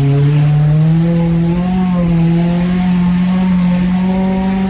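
1995 Mazda's Ford engine held at high, steady revs under hard driving, its pitch climbing a little about a second and a half in and then holding.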